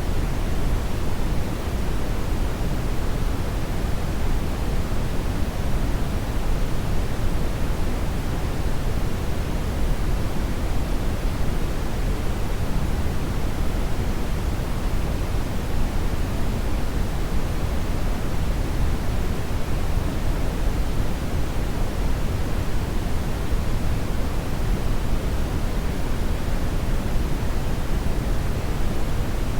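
Hair dryer running steadily: an even, unchanging rush of blown air, heaviest in the low end, with no audible motor whine or change in speed.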